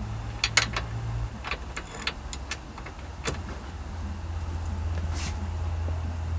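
Scattered metallic clicks and clinks of a wrench turning a front-suspension camber adjustment bolt, with a quick run of small clicks about two seconds in, over a steady low hum.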